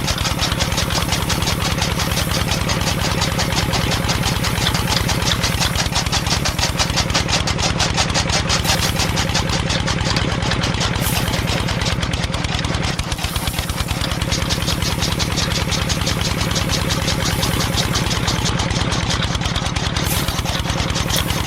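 A small motor running steadily with a fast, even pulse, easing off slightly for a moment about two-thirds of the way through.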